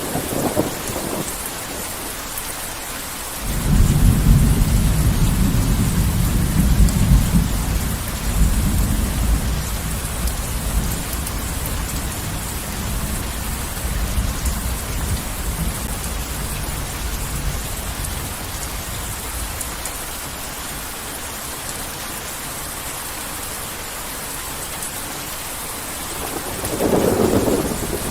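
Heavy rain falling steadily, with a deep roll of thunder that breaks in suddenly a few seconds in and slowly fades away, and a short further rumble near the end.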